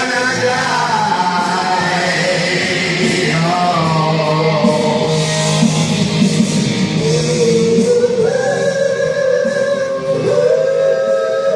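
Karaoke: a heavy rock backing track with guitar, and singers holding long, sliding notes over it.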